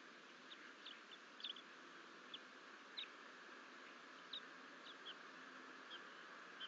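Faint, short, high bird chirps, about ten scattered irregularly, over a steady hiss.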